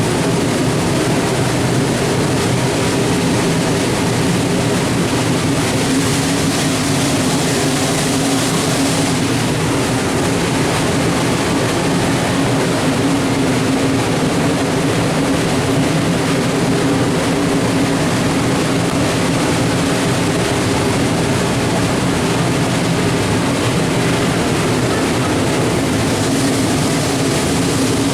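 Train running steadily: an even mechanical rumble with a constant low hum and no breaks.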